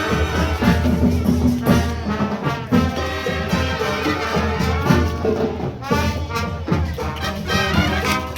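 Brass band music: a marching band playing, with trumpets and trombones.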